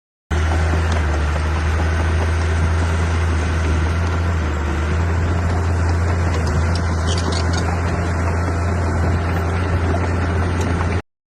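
Heavy-machinery engine running at a steady speed, a constant low drone. The sound cuts out for a moment at the very start and again just before the end.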